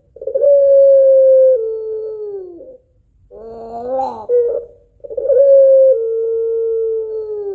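White puter pelung, a long-voiced domestic Barbary dove, giving its drawn-out cooing call. Each call is a long held note that steps down to a second, lower note and then slides off, the two-note long 'kuwok' prized in these birds. A short wavering coo comes between the two long notes, and the second long call begins about halfway in.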